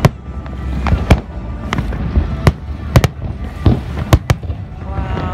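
Fireworks display: aerial shells bursting overhead in a quick, irregular series of about a dozen sharp bangs.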